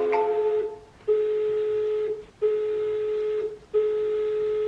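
Ringback tone of an outgoing phone call played through a computer calling app: a steady tone about a second long, repeating with short gaps, while the call rings unanswered. A chime fades out at the start.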